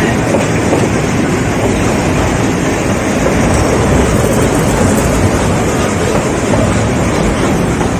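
Nilgiri Mountain Railway toy train running on the track: a steady rumble and rattle from the carriage and wheels on the rails.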